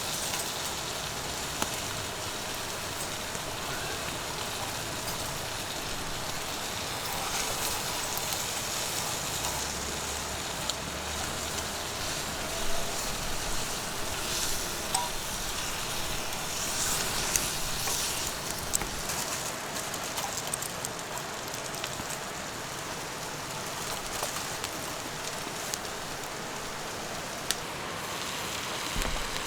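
Wood campfire burning, a steady crackling hiss with a few sharp pops from the burning wood.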